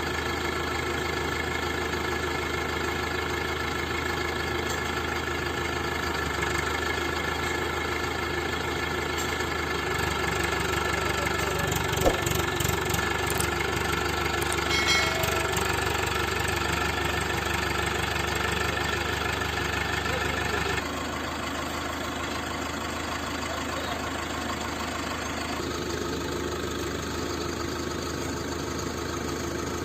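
Mahindra tractor's diesel engine running steadily, with a single sharp knock about twelve seconds in. About two-thirds of the way through the sound suddenly drops a little and changes character.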